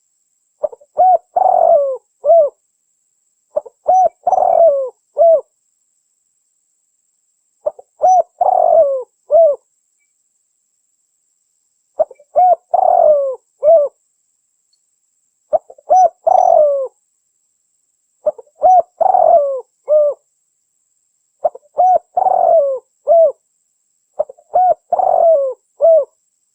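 Spotted dove (tekukur) cooing in repeated phrases of three or four low coos, the middle one longer and burry, about every three seconds, played as a lure call to attract wild doves.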